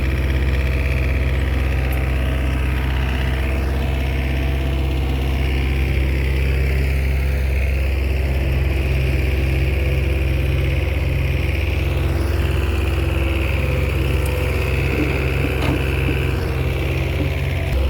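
Small Komatsu crawler bulldozer's diesel engine running steadily under work, with a higher whine that rises and fades several times.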